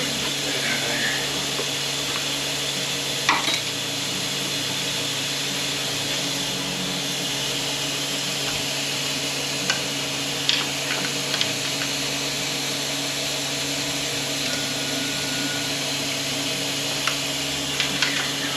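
Steady mechanical hum of shop machinery, with a few short metallic clicks and clinks from tools and transmission parts being handled: once about three seconds in, a cluster about ten seconds in, and again near the end.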